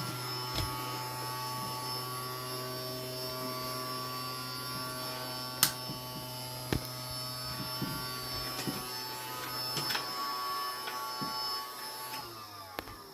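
Henry vacuum cleaner motor running with a steady hum, with a few sharp knocks and clicks, the loudest about halfway through. Near the end it is switched off and winds down.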